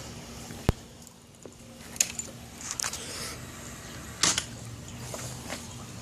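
A few sharp clicks and small handling noises over a faint low hum, the loudest click about a second in; no engine is running.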